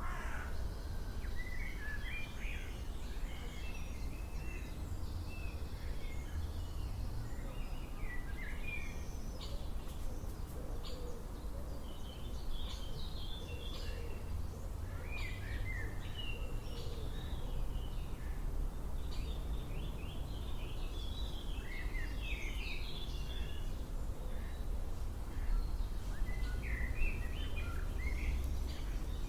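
Several small birds chirping and singing in short, scattered phrases, over a steady low rumble.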